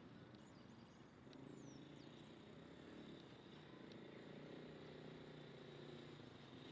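Near silence: faint, short, high bird chirps in the first couple of seconds over a steady low rumble.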